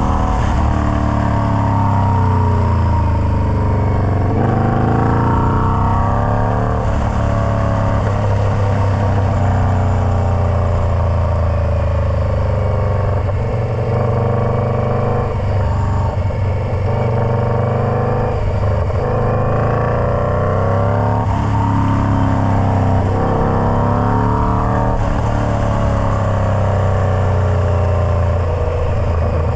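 Indian Scout Bobber V-twin running through a Freedom Performance Combat 2-into-1 exhaust. The engine note climbs and drops again and again, every few seconds, with breaks between the climbs.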